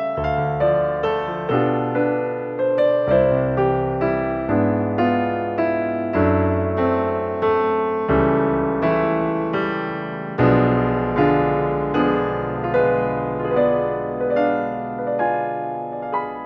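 Background piano music: a slow, gentle melody over chords, the notes struck about twice a second.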